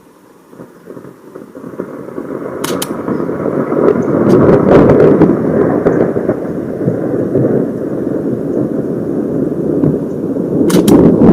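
Close thunder: a rumble that builds over about four seconds to a loud peak, broken by sharp cracks, then rolls on and swells again near the end with more cracks.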